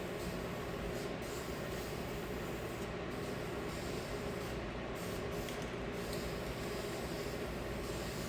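Steady hiss of a compressed-air tool at work on the wheels, as in abrasive blasting or spray painting, running without a break.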